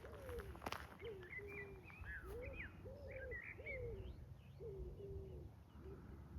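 Pigeons cooing, a long run of soft coos that rise and fall, with a small bird chirping higher up about one and a half to three seconds in.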